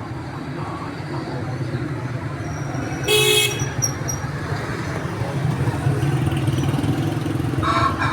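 Steady street traffic rumble with a vehicle horn honking once, briefly, about three seconds in. A shorter, higher pitched sound comes near the end.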